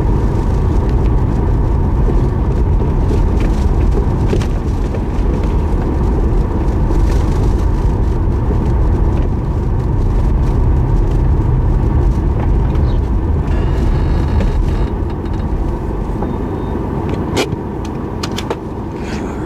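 A car driving: steady engine and road rumble, easing off slightly near the end, with a few sharp clicks.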